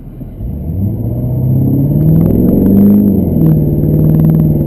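Chevy 2500HD pickup's 6.6-litre Duramax LB7 V8 turbodiesel accelerating hard: the engine note climbs for a few seconds, drops at an upshift, then holds steady under load.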